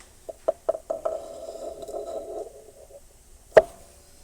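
Metal engine parts clinking as they are handled during a piston and connecting-rod install. There are several quick light clicks, then a metal part rings for about a second and a half, then a single sharp clack near the end.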